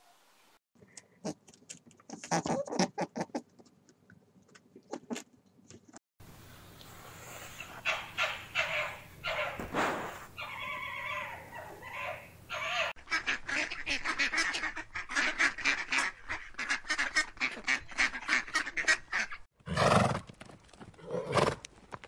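Animal calls in several cut-together clips: runs of short, rapid cackling calls, then a horse whinnying after a cut near the end.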